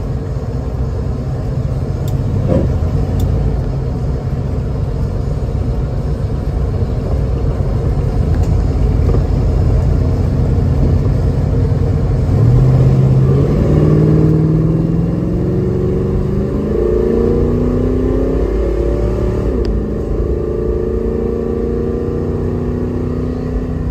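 Heard from inside the cabin of a 1974 Plymouth Duster: its 360 V8 engine and the road noise run as a steady low rumble while the car cruises. About halfway through, the engine note rises in pitch and gets louder as the car accelerates, climbing in several steps.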